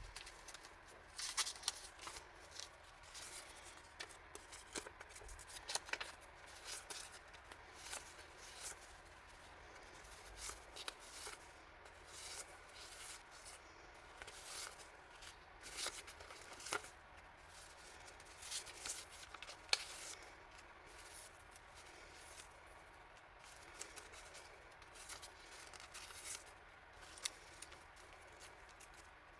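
Hands handling plastic packaging and paper goods, an irregular run of short crinkles, rustles and light clicks throughout.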